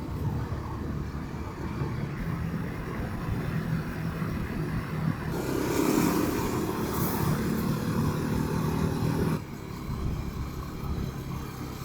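A Rieju motorcycle's engine running under way, with wind noise. About five seconds in it grows louder with a rising pitch, then drops back suddenly a couple of seconds before the end.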